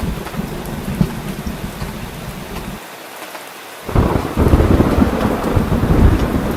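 Steady heavy rain with low, rolling thunder rumble under it. About three seconds in the rumble drops away for a second, then comes back louder with the rain just before four seconds in.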